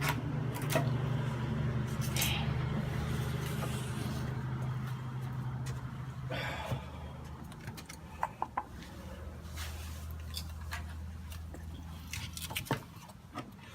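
Pieces of firewood knocking and scraping now and then as they are stacked, over a steady low hum that drops lower about halfway through.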